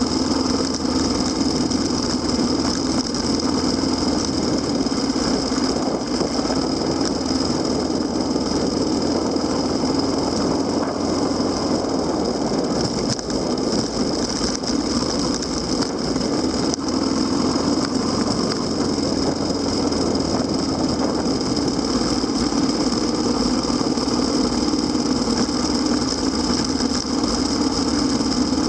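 Kawasaki KLX250SR dual-sport motorcycle's single-cylinder four-stroke engine running at a steady, even pitch, with a steady high hiss over it.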